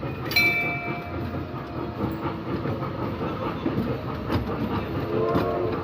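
Small amusement-park ride train running along its track: a steady rumble with scattered clicks, and a sharp click with a brief ringing tone about half a second in.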